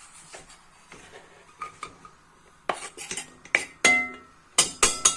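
A metal utensil knocking and clinking against a cooking pot as diced beef fat is loaded in: a few light taps, then a run of sharp knocks in the second half, one ringing briefly.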